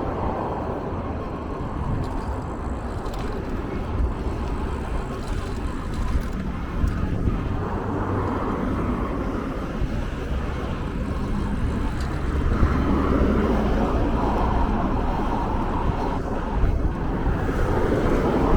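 Vehicle running, a steady low rumble with rushing noise and a few faint clicks.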